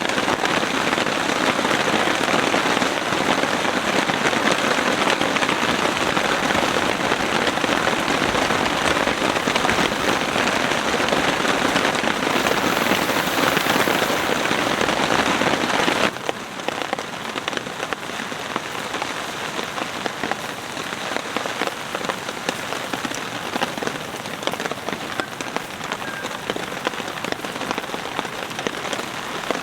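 Heavy rain falling on a tent. A little past halfway it drops suddenly to a softer, lighter patter.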